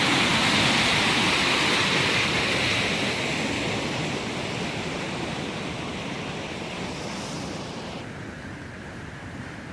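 Rushing floodwater, a steady noisy rush that fades gradually, with its hiss dropping away abruptly about eight seconds in.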